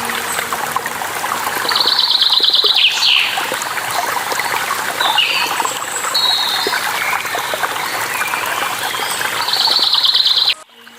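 A waterfall rushing steadily while songbirds chirp over it, one of them giving a fast buzzy trill about two seconds in and again near the end. Just before the end the whole sound drops out abruptly.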